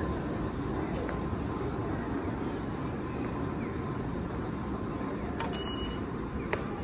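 Steady low rumble of a Nankai commuter train running, with a couple of short sharp clicks near the end.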